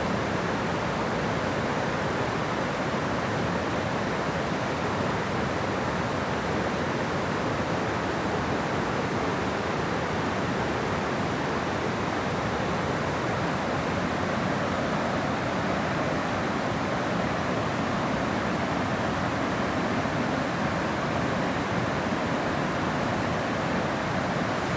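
Steady, even rush of water pouring at a dam, with no breaks or changes.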